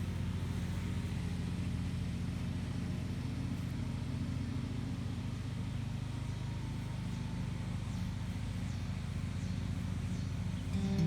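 A motor or engine running steadily, a constant low hum with no change in speed.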